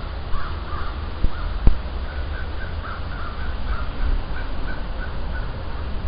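A bird calling over and over, short calls a few times a second, over a steady low rumble of wind and handling on the microphone. Two sharp knocks come about a second and a half in.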